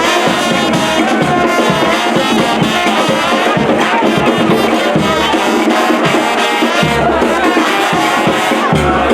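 Music led by brass instruments, playing steadily.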